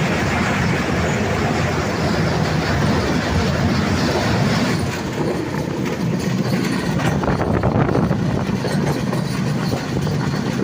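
Train running along the track: a steady, loud rail rumble of wheels on rails.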